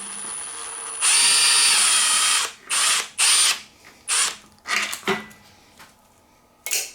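Power drill-driver with a short bit running with a high-pitched motor whine. It runs steadily for about two and a half seconds, then in about six short trigger bursts.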